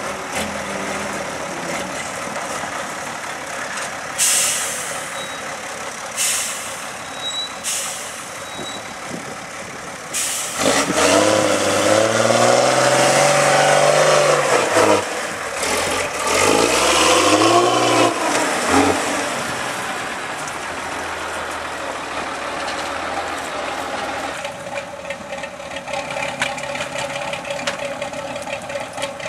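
Trial truck's engine working over a course section: a few short hisses of air about four to eight seconds in, then the engine revving hard twice, its pitch rising and falling under load, before dropping back to a steady run.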